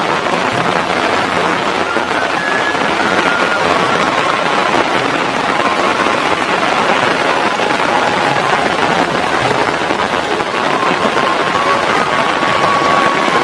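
Steady rain falling, a dense even hiss with faint wavering tones beneath it.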